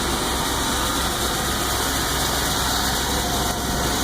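Car engine idling steadily, shortly after a cold start in sub-zero cold.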